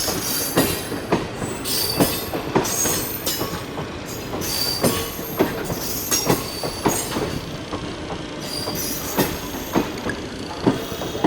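Passenger coaches of an arriving train rolling past, wheels knocking over rail joints about every half second, with short high-pitched wheel squeals.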